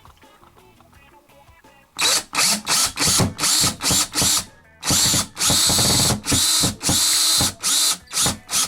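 Cordless drill/driver running in short trigger bursts, then longer runs, driving screws. It starts about two seconds in, with about a dozen bursts in all.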